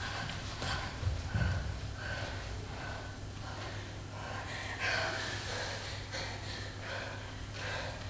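Short, sharp breaths and gasps in quick succession, over a steady low hum.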